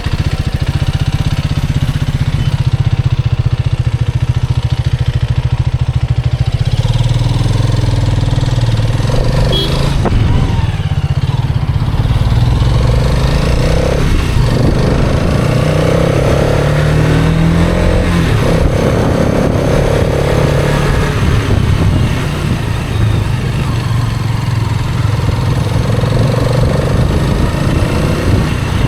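Hero Karizma XMR's 210 cc single-cylinder engine running steadily as the motorcycle is ridden, its pitch stepping up and down a few times as the rider changes speed.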